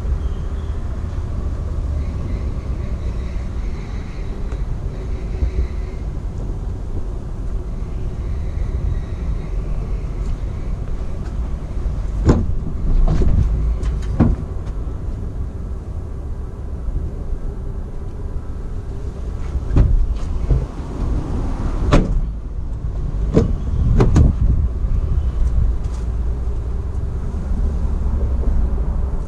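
Steady low outdoor rumble, with several separate sharp knocks and clunks in the second half.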